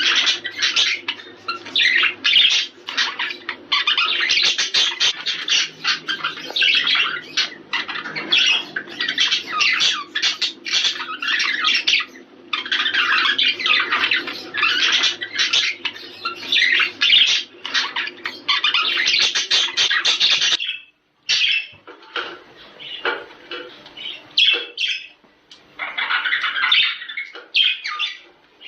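Budgerigars chattering and warbling in a dense, continuous mass of chirps. About three-quarters of the way through it breaks off suddenly and resumes sparser.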